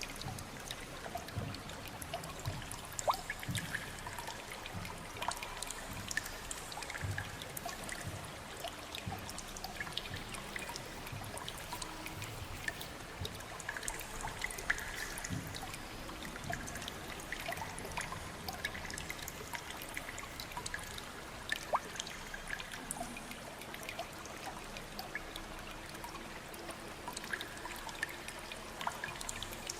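Water trickling and dripping in a cave river, with scattered individual drops landing now and then over a steady wash of moving water.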